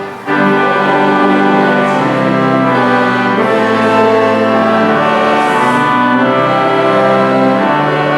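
Church organ playing loud sustained chords that change every second or two, with a brief break just after the start.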